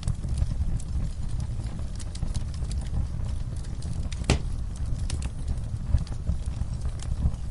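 Campfire crackling: scattered sharp pops and snaps over a steady low rumble, with one louder pop about four seconds in.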